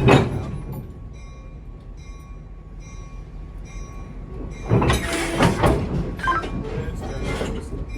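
Metal clanking and clatter from work on a steam locomotive, loudest in a burst of clatter about five seconds in, over a low steady rumble.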